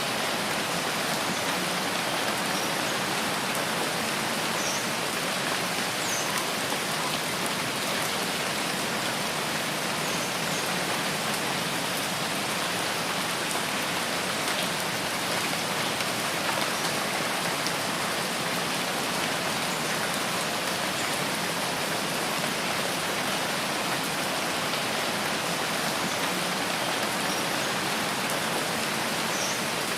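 Steady rain falling in a forest, an even hiss of many drops, with a few faint, short, high chirps now and then.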